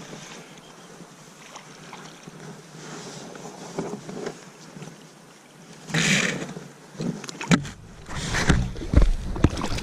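Faint steady creek water. About six seconds in comes a short splash, then a run of splashes, knocks and low thumps as a hooked brown trout is played in close.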